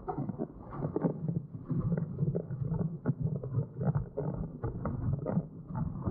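Windsurf board running over choppy water, picked up by a POV camera: a muffled, steady rumble of wind and water with irregular slaps and knocks from the board hitting the chop.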